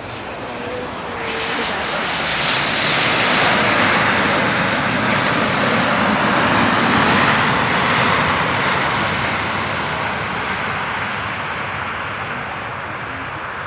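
Aircraft engines of a passing airliner: a loud rushing roar that swells over the first couple of seconds, stays at its loudest through the middle, then slowly fades.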